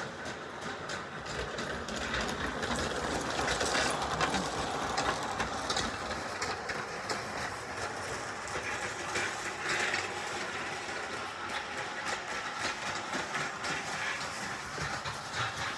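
Bachmann G-scale model train (Thomas pulling Troublesome Trucks wagons) running on a small loop of track. A steady whirr of motor and wheels is broken by rapid clicks over the rail joints, and it swells louder at times as the train comes round.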